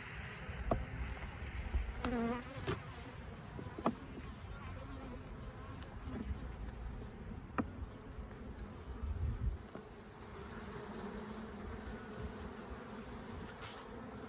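Honeybees buzzing around an open hive during an inspection: a steady hum, with a bee swooping close by about two seconds in. A few sharp clicks are scattered through it, and a low rumble drops away about nine and a half seconds in.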